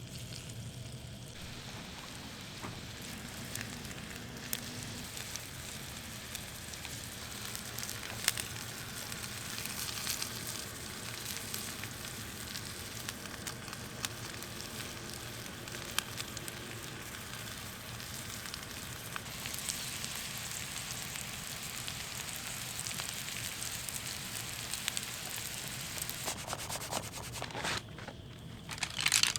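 Food sizzling and crackling as it fries in a pan: a steady hiss with scattered pops.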